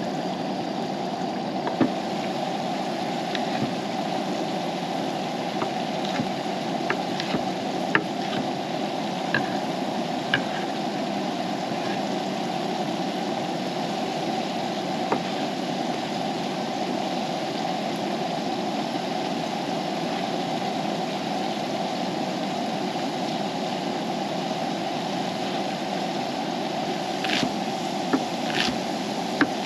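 Steady hiss of dinner cooking at camp, with scattered sharp pops and crackles, a few clustered near the end.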